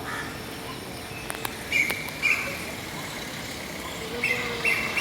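A bird's short, high chirps, a pair about two seconds in and a quicker run near the end, over steady outdoor background noise.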